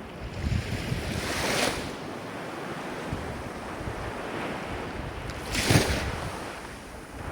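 Ocean waves washing in over a steady surf hiss, with two waves breaking louder, about four seconds apart.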